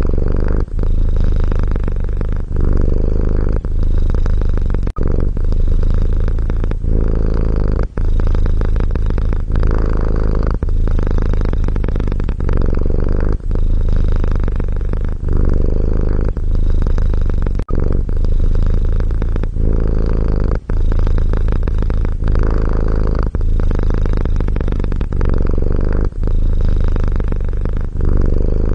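Domestic cat purring loudly and steadily, a low rumble with short breaks every two to three seconds.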